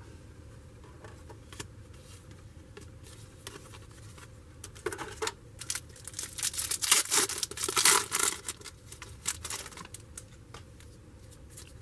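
A foil trading card pack wrapper being torn open and crinkled: a run of rustling, tearing bursts starting about halfway through, after a few faint clicks of cards being handled.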